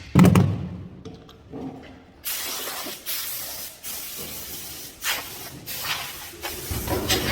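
A heavy thump, then from about two seconds in a steady hiss with several swells, like air or spray let out in spurts.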